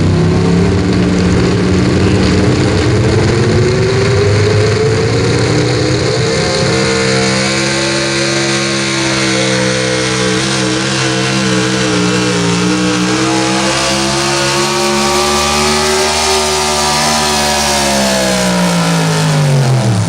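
Super Stock 4x4 pulling truck's engine at full throttle through a pull. The pitch climbs over the first few seconds, holds high with small wavers, then falls steeply near the end as the engine comes off the throttle, and the sound cuts off.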